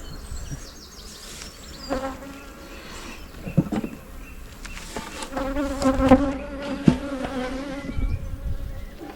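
Honeybees buzzing around an open hive: a steady, wavering drone that grows louder from about five seconds in. A couple of sharp knocks sound through it.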